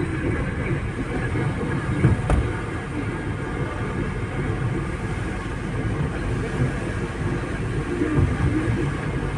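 Steady low rumble of a moving vehicle, with a single sharp knock a little over two seconds in.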